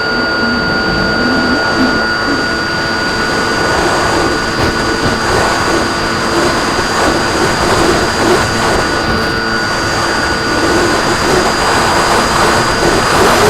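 Model airplane's motor and propeller running steadily in flight, a constant high whine over rushing wind noise.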